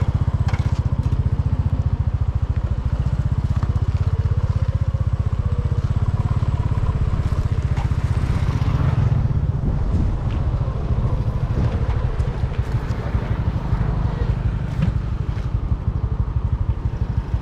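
Small motorcycle engine running steadily, a rapid even low pulsing.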